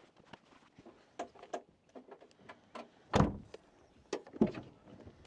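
A series of scattered clicks and knocks from things being handled. The loudest is a heavy clunk about three seconds in, followed by another strong knock a little over a second later.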